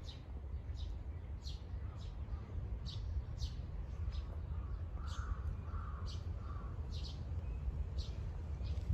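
Small birds chirping over and over, short falling notes about twice a second, with a crow cawing three times about five seconds in, over a steady low rumble.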